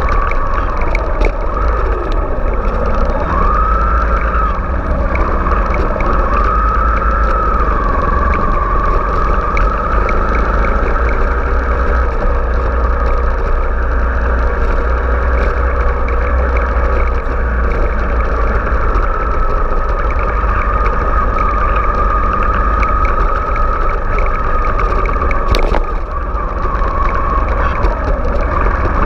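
Kawasaki Ninja 250's parallel-twin engine running in slow traffic, its pitch rising and falling with the throttle for the first several seconds and then holding steadier, over a heavy low rumble. One short sharp click near the end.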